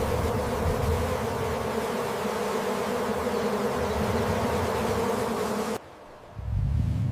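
Steady insect buzzing, like a bee or fly close to the microphone, that cuts off abruptly about six seconds in. A short low rumble follows near the end.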